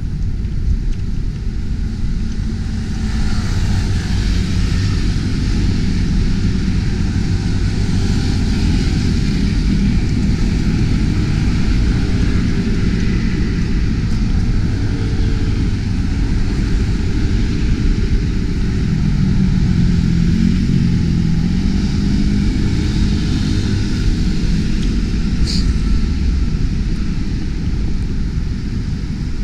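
Steady low rumble of outdoor noise, like vehicle traffic, with a brief high-pitched chirp near the end.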